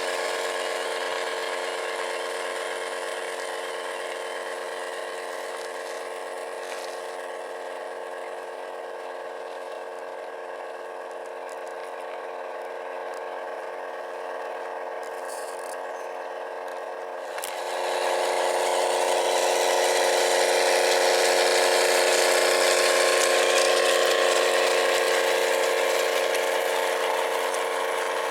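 Whine of the small electric motors and plastic gearboxes of radio-controlled construction models running steadily, louder and fuller from about two-thirds of the way in.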